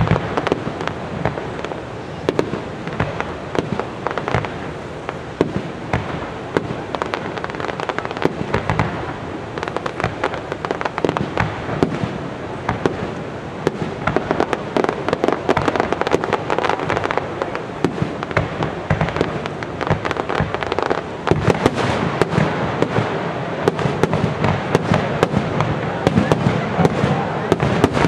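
Fireworks display: a rapid, continuous barrage of aerial shell bursts, many overlapping bangs and crackles, growing denser and louder about twenty seconds in.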